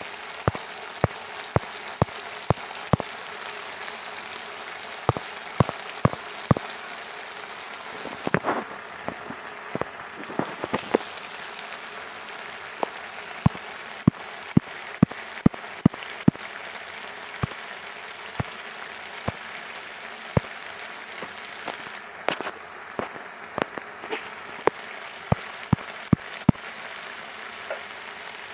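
Mustard paste frying in hot oil in a nonstick pan: a steady sizzle broken by frequent sharp pops of spitting oil.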